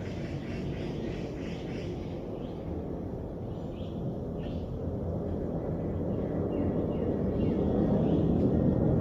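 A low, distant engine rumble that grows steadily louder, with faint bird chirps above it.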